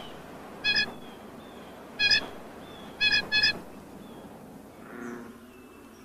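Short honking bird calls, five of them, the last two in quick succession, followed by a softer, lower call near the end.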